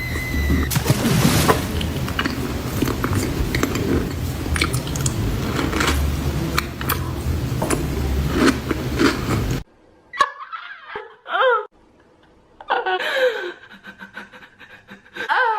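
Dense crackling noise full of sharp clicks over a low rumble, which cuts off abruptly about ten seconds in. After it come short bursts of laughter.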